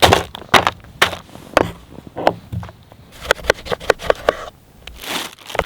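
Knife knocks and taps on a wooden cutting board during sandwich preparation, irregular and sharp, with a longer scrape about five seconds in.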